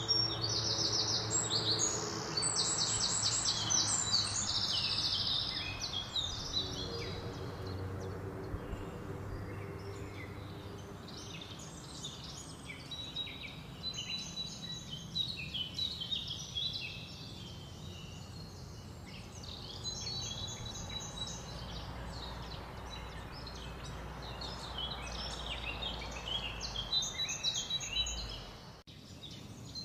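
Songbirds singing over steady outdoor background noise. A fast, bright trilling song fills the first five seconds, then scattered chirps and warbles continue, with a low distant hum underneath.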